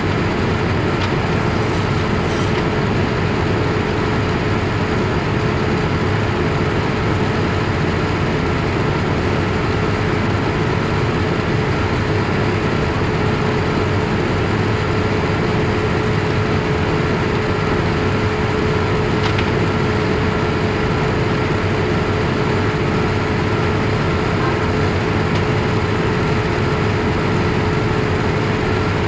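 Steady engine and airflow noise inside the cabin of a Boeing 787-8 Dreamliner, an even rush with a constant hum and a thin steady whine, unchanging throughout.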